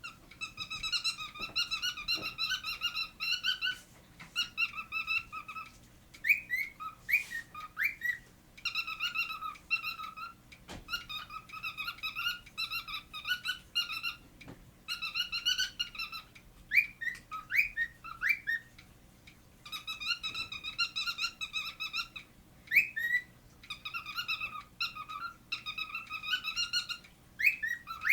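Male cockatiel singing: repeated warbling whistled phrases, each a second or two long, alternating with short quick upward squeaks.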